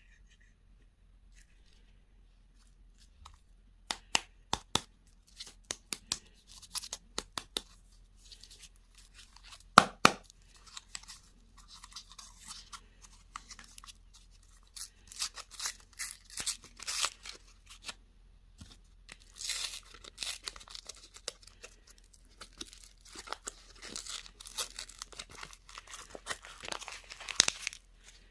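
Candy packaging being handled and torn open: a run of sharp clicks and taps, a loud snap about ten seconds in, then long stretches of wrapper crinkling and tearing.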